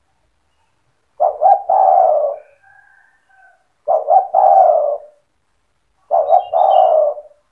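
Spotted dove (tekukur) cooing: three phrases, each a couple of short notes running into a longer drawn-out coo, about every two and a half seconds. Faint chirps of a small bird sound between the phrases.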